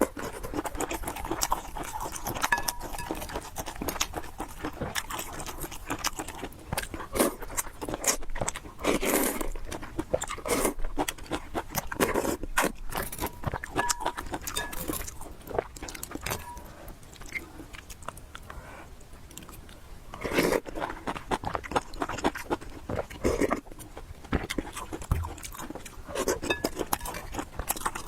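A person eating: wet chewing, biting and smacking mouth sounds with crunchy bites, as a dense run of irregular short clicks.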